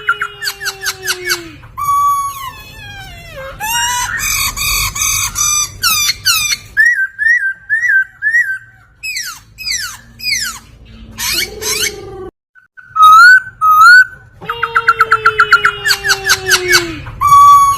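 Laughingthrush (poksay) singing a loud, varied song. It mixes rapid runs of short repeated notes, clear whistled slurs and chattering phrases, and opens and ends with a similar fast run.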